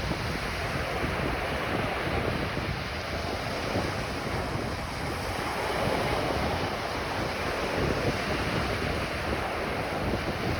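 Ocean surf washing onto a beach in a steady, continuous wash, with wind buffeting the microphone.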